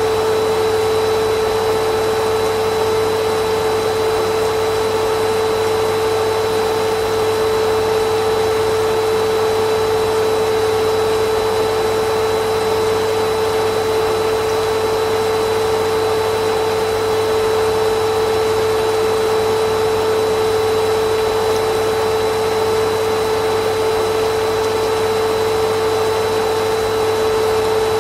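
Vacuum cleaner motor running steadily, a constant whoosh of air with a steady hum, unchanging throughout.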